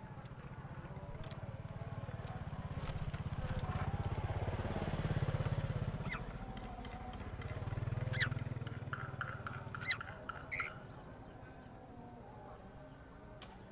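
A low, pulsing engine rumble swells and fades twice, like a motor vehicle passing. A few short, high bird chirps come between about eight and eleven seconds in.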